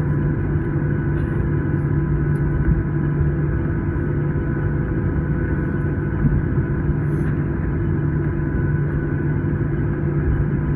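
Steady cabin drone inside a Boeing 737-900 on the ground after landing: a constant low hum with a few steady whining tones over it.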